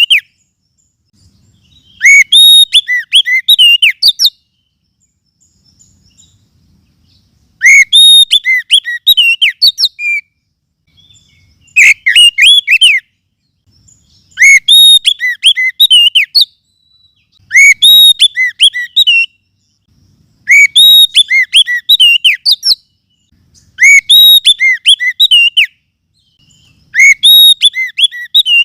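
Recorded oriental magpie-robin song, used as a bird lure: loud phrases of one to two seconds made of quick, repeated upward-sweeping whistled notes, coming about every three seconds with short silences between.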